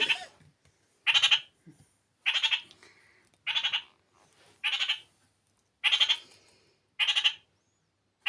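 Kakariki (New Zealand parakeet) giving short, harsh repeated calls, about one every second and a bit, seven in a row.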